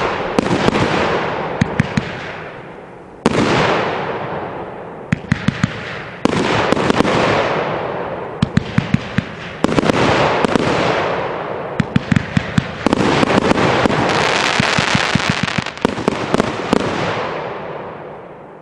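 A 28-shot fanned firework cake (Smoking Alien 'Meatball Hero') firing: sharp shots in quick volleys, each volley followed by a loud hiss that fades over a few seconds. The last volley dies away near the end.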